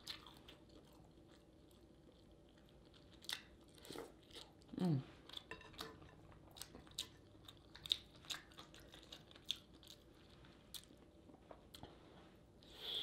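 Close-miked eating sounds: soft chewing and wet mouth clicks and smacks at irregular intervals, with a brief falling hum of the voice about five seconds in.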